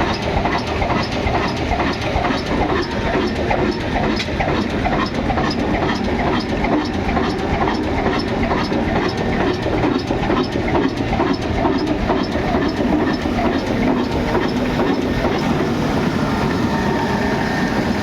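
An old 22 HP diesel engine running steadily with an even, loud knocking beat, about three beats a second.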